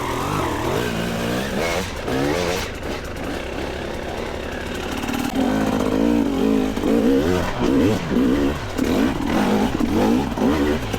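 Two-stroke dirt bike engine running. From about halfway in it is revved up and down over and over.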